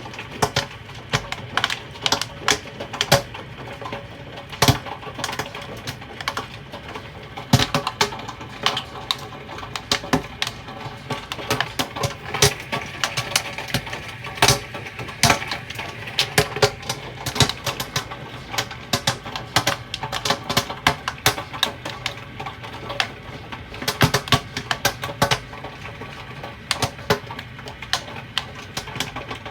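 Hailstones striking hard surfaces: a dense, irregular clatter of sharp clicks and knocks, with louder hits scattered throughout, over a steady hiss.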